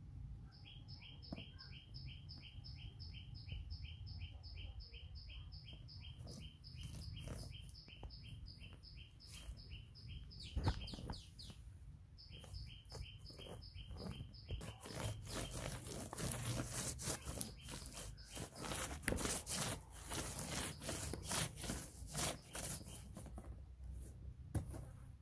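A bird repeating a quick, even two-pitched chirp, about three or four a second, through the first half with a brief pause near the middle. From about halfway on, louder rustling and crackling noise takes over and is the loudest part.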